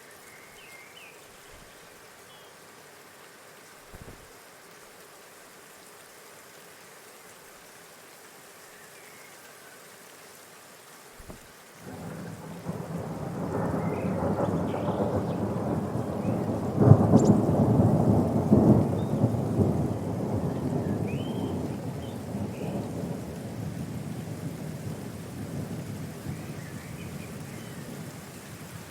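Steady rain, with a long roll of thunder that swells about twelve seconds in, peaks a few seconds later and slowly dies away. A few faint high chirps sound over it.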